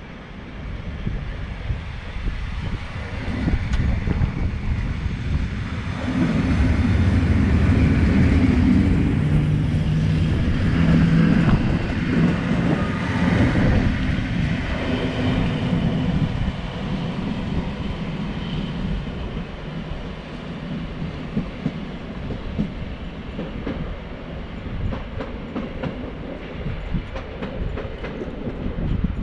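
A POLREGIO EN57-type electric multiple unit passing close by, its wheels running over the rails with a low rumble. It builds over the first few seconds, is loudest for several seconds as the cars go by, then fades as the train draws away.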